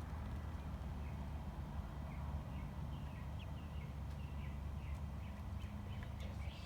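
Young chickens peeping: scattered short, high chirps, some falling in pitch, over a steady low rumble.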